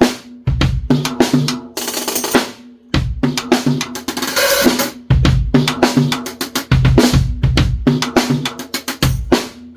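Drum kit groove played live: kick drum, snare and hi-hat in a repeating beat, with washy cymbal crashes about two seconds in and again around four seconds in.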